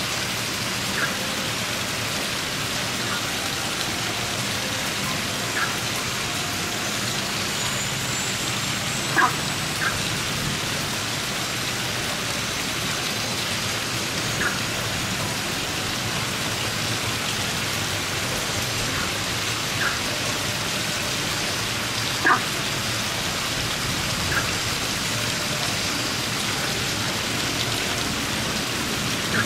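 Steady rain falling, with single drops plinking close by now and then, the sharpest about nine seconds in and again about twenty-two seconds in.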